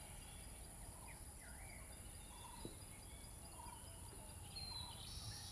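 Faint bird calls in the background: scattered short chirps and whistled glides, over a steady high-pitched hiss.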